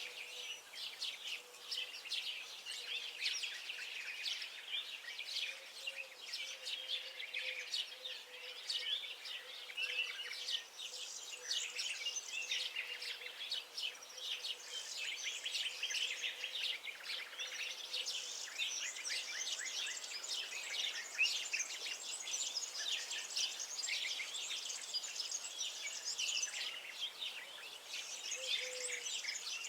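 A chorus of many small songbirds singing and chirping at once: a dense, continuous stream of rapid high chirps and trills. A faint steady hum runs underneath.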